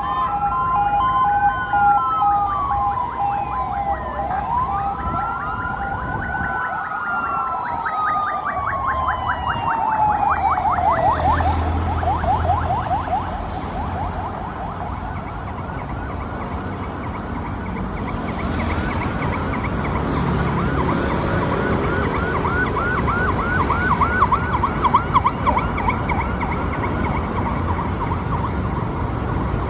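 Several emergency-vehicle sirens of a passing fire-truck convoy sound together. Slow rising-and-falling wails overlap a fast yelp in the first ten seconds, along with a pulsing steady two-note tone at the very start. A fast yelp comes back strongly in the second half.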